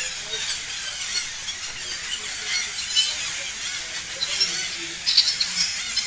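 A large flock of parrots calling together, a continuous chatter of many overlapping shrill squawks and chirps.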